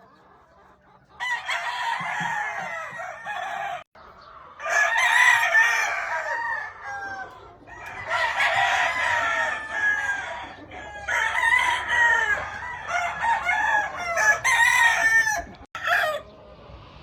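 Gamefowl roosters crowing, about five or six crows of two to three seconds each in quick succession, some overlapping, after a quiet first second.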